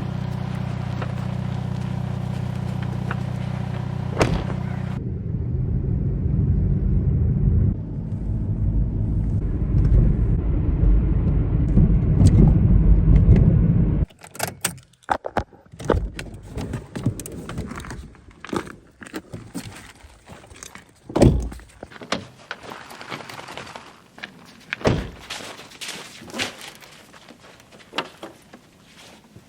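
A vehicle engine running with a steady low hum, getting louder toward the middle, then cutting off suddenly about 14 seconds in. After that come scattered clunks, knocks and jingles, like keys, a door and gear being handled.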